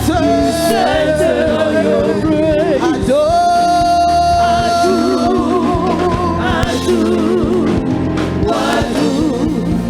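Live gospel worship song: singing over musical accompaniment, with a long held, wavering note a few seconds in.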